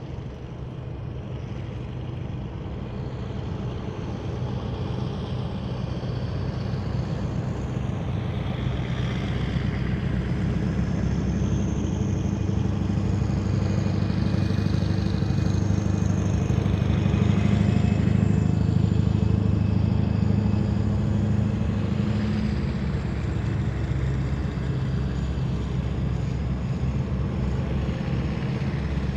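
Heavy military vehicles passing in a column, their diesel engines making a deep, steady drone with a high whine over it. The sound builds to its loudest a little past halfway, then eases off slightly.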